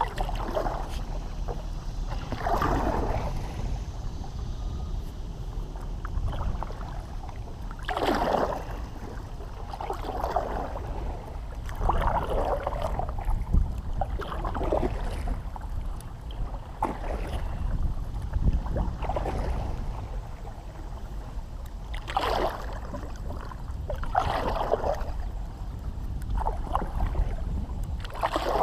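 Kayak paddle strokes: the blades swish and splash into the water about once every two seconds, with a short pause midway, over a steady low rumble.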